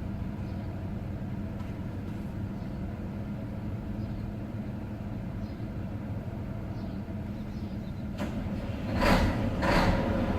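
Heavy truck's diesel engine running steadily, heard from inside the cab, with two short bursts of noise near the end.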